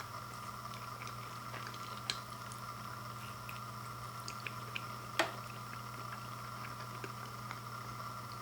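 Steady low hum with a few faint scattered clicks and one sharper click about five seconds in.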